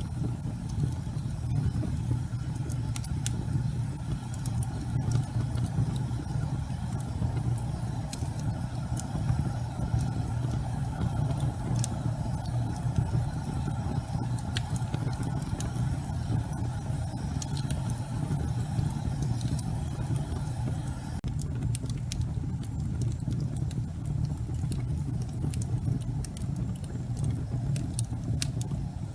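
Wood fire burning in a fireplace: a steady low rumble of the flames with scattered sharp crackles and pops from the burning logs, the crackling getting busier in the last several seconds.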